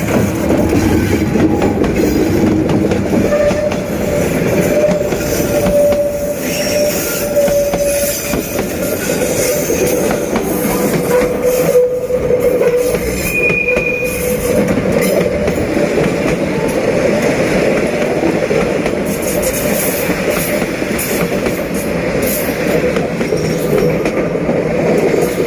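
Passenger train hauled by a D19E diesel-electric locomotive running along the rails: steady rolling noise of the wheels with clickety-clack and some wheel squeal, including a short high squeal about halfway through.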